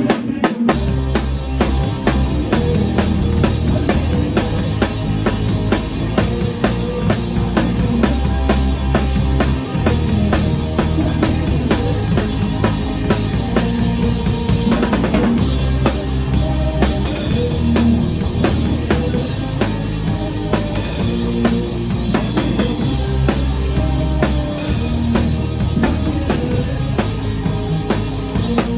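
Live rock band playing a song, with the drum kit to the fore: bass drum and snare keeping a steady beat over sustained bass notes.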